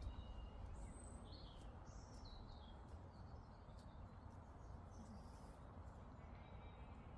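Faint outdoor birdsong: a few short, high chirps and twitters in the first half and a brief thin note near the end, over a low, steady background rumble.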